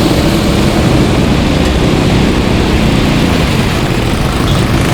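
Several go-kart engines running at once as karts lap the circuit, a steady, loud engine mix with no single kart standing out.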